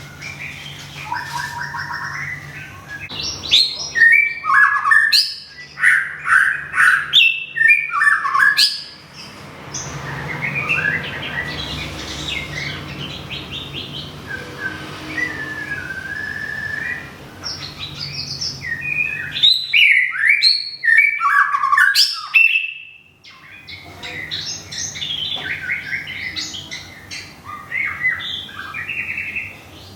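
White-rumped shama singing a long, varied song of quick whistled and chattering phrases that change pitch constantly. The song comes loudest in two spells, a few seconds in and again about two-thirds of the way through.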